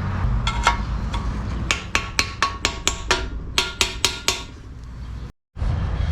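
Light metal-on-metal clicks and taps, about a dozen in quick irregular succession with a short ringing tone, as small steel transmission parts are handled and fitted together. The sound drops out abruptly for a moment near the end.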